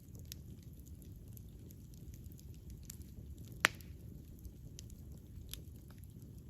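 Campfire burning with a low steady rumble and scattered faint crackles, and one sharp, loud pop a little over halfway through.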